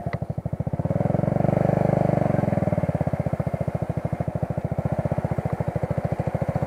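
Motorcycle engine running under way with a rapid, even beat of firing pulses, getting louder about a second in as it pulls and then holding steady.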